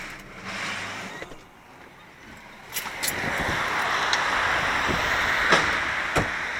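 A few clicks and knocks from a car's door, then from about three seconds in a steady rushing noise of wind and outdoor air with several more sharp clicks.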